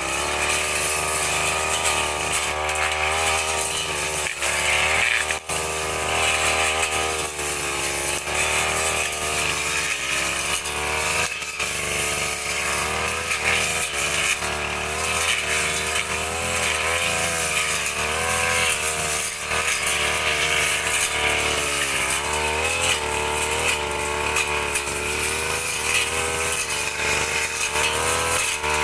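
Two-stroke brush cutter engine running hard while clearing grass and brush, its pitch rising and falling as the throttle and load change.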